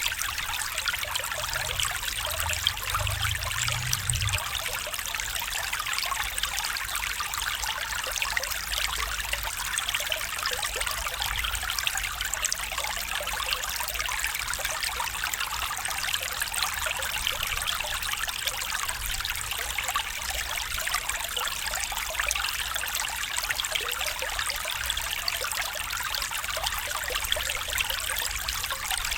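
Stream water trickling and splashing in a steady, even rush, with a brief faint low rumble a few seconds in.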